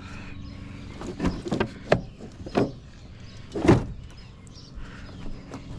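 Several sharp knocks and clatters of parts being handled, the loudest about three and a half seconds in with a short falling squeak, over a steady low hum.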